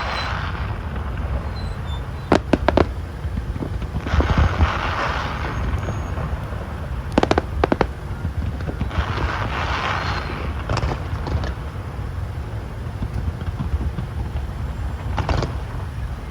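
Fireworks bursting: a few sharp bangs about two seconds in, a quicker cluster about seven seconds in and one more near the end, with hissing, crackling swells between them over a steady low rumble.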